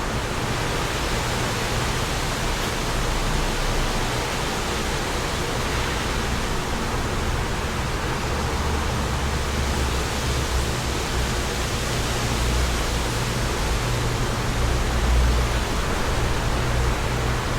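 Wind blowing steadily, with a low rumble that swells and fades as gusts buffet the microphone, loudest about three-quarters of the way through.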